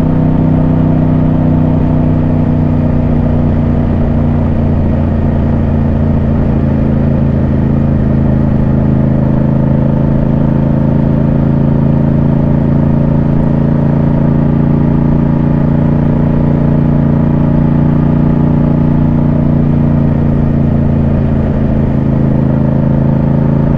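Yamaha MT-07 parallel-twin motorcycle engine running at steady revs while cruising, with an even, unchanging drone.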